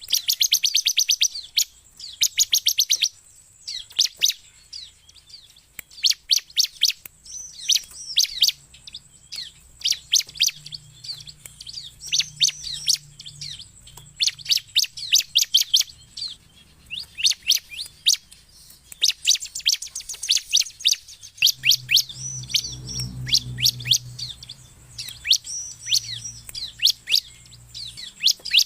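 Bar-winged prinia (ciblek) singing energetically: repeated bursts of fast, high trills and sharp chirps with short pauses between. A faint low rumble underlies it about three quarters of the way through.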